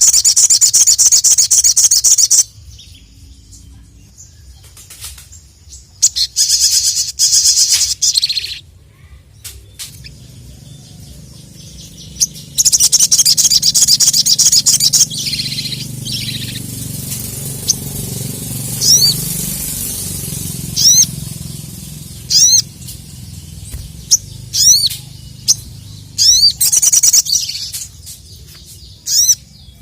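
Sogon (sogok ontong sunbird) singing in loud bursts of fast, high-pitched trilling, four bursts a few seconds apart, with short sharp chirps in between. This is the excited full-voiced song that keepers call gacor, used to call out to a rival.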